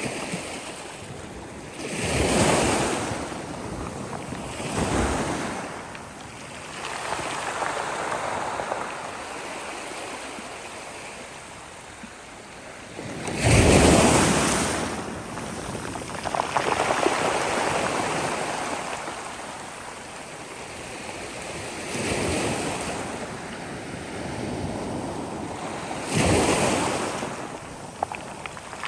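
Sea waves breaking and washing up the shore in repeated surges, each swelling and then easing off. The biggest one breaks about halfway through.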